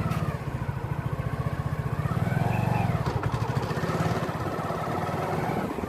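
Small motorcycle engine running under way, with a rapid, even exhaust pulse; the engine note rises a little about two seconds in.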